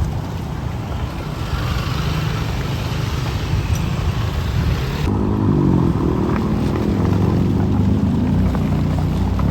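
Road traffic going by: vehicle engines running close by with tyre hiss. About five seconds in the sound changes abruptly to a louder engine whose pitch rises and then holds steady.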